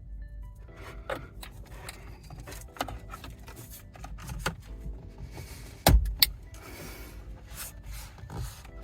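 Plastic wiring-harness connectors and loose wires being handled and pushed together, rubbing and rustling with small clicks. A sharp double click about six seconds in is a connector latching into place.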